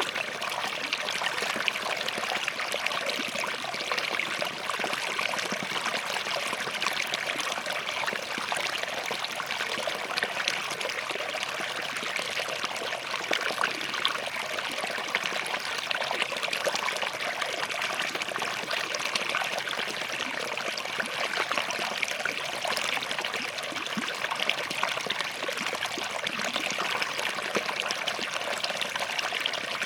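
Small forest stream flowing and trickling over rocks: a steady babble of running water with fine splashing detail.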